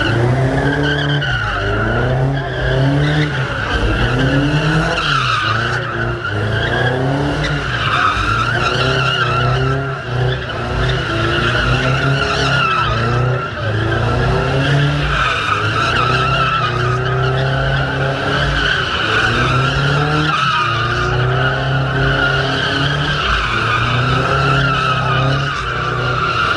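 Car engine revving up and down in waves while the tyres squeal continuously in a long sliding spin.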